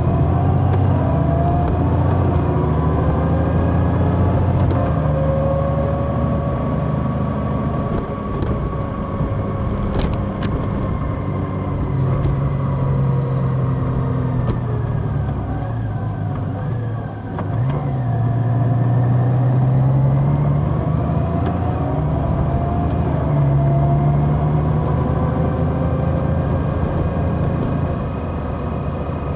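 Large motorcycle's engine running while riding, its pitch rising and falling gently with the throttle, with a brief easing off about seventeen seconds in.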